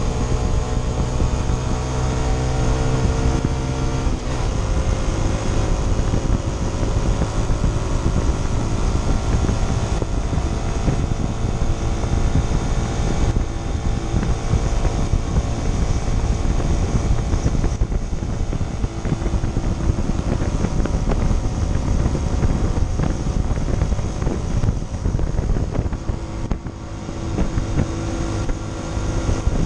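Honda CT125 Trail 125's single-cylinder engine running under way on a paved road, with wind rushing over the microphone. The engine note changes about four seconds in, and the loudness dips briefly near the end.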